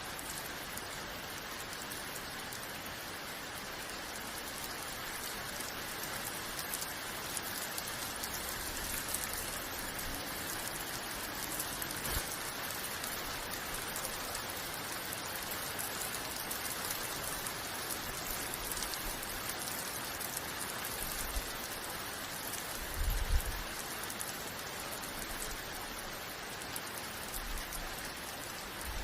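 Steady rain falling and pattering on surfaces, an even hiss of drops. A few brief low thuds sound through it, the loudest about 23 seconds in.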